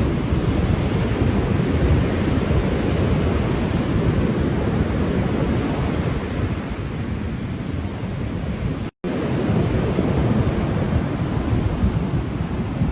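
Ocean surf: a steady, dense wash of waves, heaviest in the low end, broken by a split-second cut to silence about nine seconds in.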